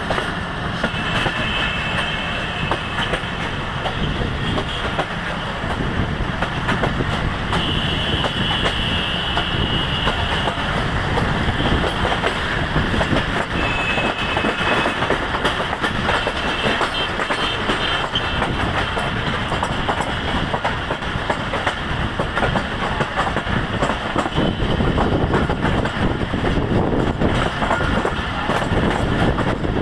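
Passenger train coaches running on the move, heard from a coach window: steel wheels clattering over the rails with a steady rush. A thin wheel squeal comes and goes three times in the first half as the train rounds a curve.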